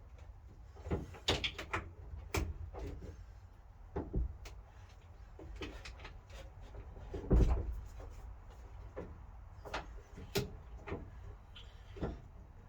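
Irregular clunks and clicks of parts and tools being handled on a car, with one heavier thump about seven seconds in.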